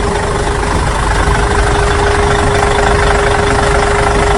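Steady engine-like running noise with a constant mid-pitched hum over a dense rumble, heard as the toy truck drives off.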